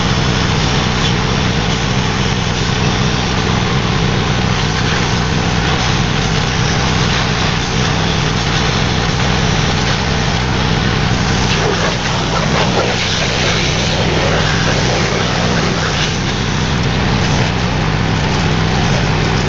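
Petrol pressure washer's small engine running steadily under load, with the water jet hissing as it sprays.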